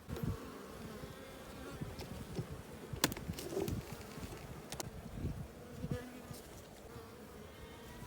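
Honeybees buzzing steadily around an open hive, broken by a few sharp clicks and low knocks from the hive's boxes being handled as it is opened; the loudest click comes about three seconds in.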